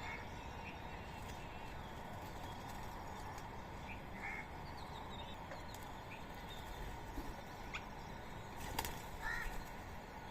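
Rose-ringed parakeets giving a few short, scattered calls over a steady background hum, with a single sharp click about nine seconds in.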